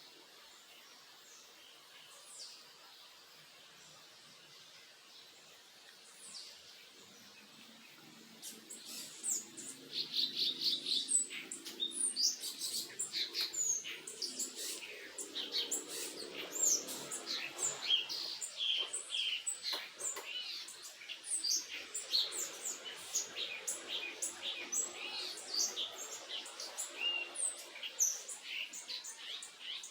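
Backyard songbirds chirping: a few scattered high calls, then from about eight seconds in a dense, lively run of quick, high twittering chirps that keeps going.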